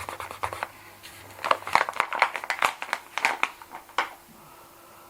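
Cash register keys clicking in a rapid, even run that stops about half a second in. Then come irregular, louder clicks and crinkling handling noises for a couple of seconds.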